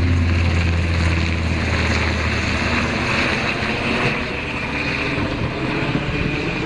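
Aircraft running steadily: a loud, even engine-and-airflow roar, with a low hum that fades out in the first second.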